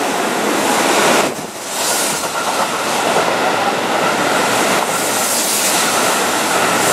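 Keihan 3000-series limited-express train running past along the platform at speed: a loud, steady rush of wheels on rail, with a faint steady whine from about two seconds in.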